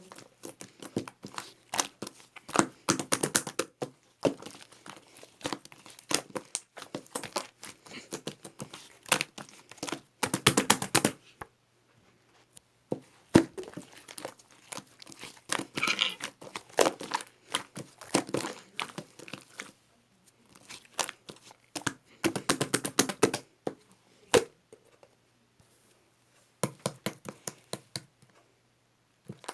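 Clear slime being squeezed, stretched and poked by hand, giving runs of sticky clicks and crackling pops, in clusters broken by a few brief pauses.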